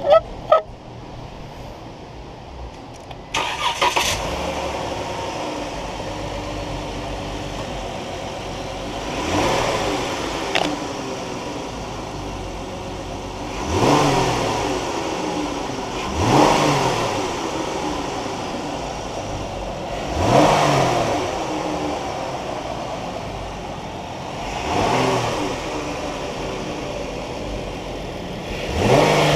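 2018 Dodge Journey's 3.6-litre V6 engine starting about three seconds in, then idling and revved briefly several times, each rev rising and falling back to idle.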